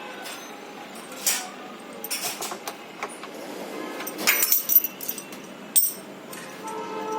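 A series of sharp metallic clinks and knocks, scattered through, the loudest cluster about four to five seconds in, as metal parts or tools are handled during work on a washing machine drum. Background music comes in near the end.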